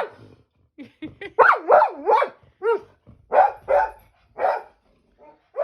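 Springer spaniel barking repeatedly at birds: about eight short, sharp barks, often in quick pairs, the excited, frustrated barking of a dog that cannot reach the birds.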